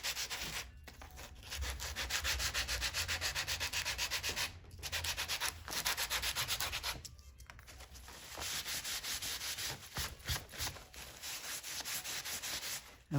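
Rapid back-and-forth rubbing or sanding strokes on Torah parchment during repair, in several spells broken by short pauses.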